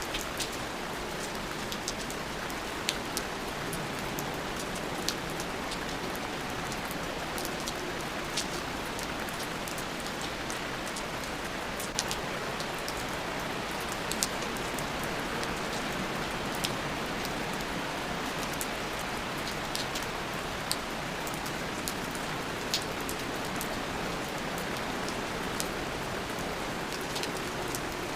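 Steady rain falling, with scattered individual drops ticking sharply on a surface every second or two.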